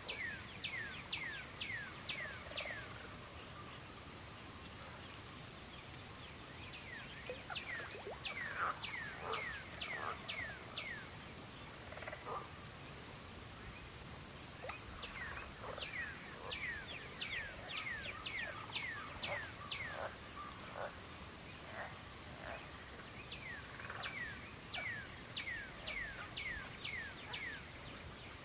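Crickets trilling in a steady, unbroken high-pitched chorus, joined every few seconds by runs of short, falling whistled notes.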